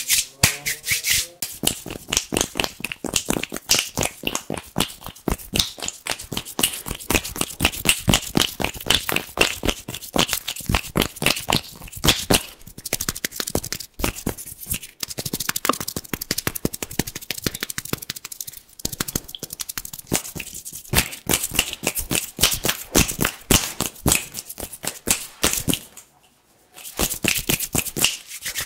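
ASMR hand sounds: hands rubbing together fast and crisply, making a dense run of sharp, quick strokes, with one brief pause near the end.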